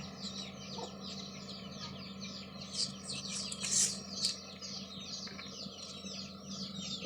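Birds chirping continuously, a dense run of short, high, falling chirps with a few louder ones near the middle, over a faint steady low hum.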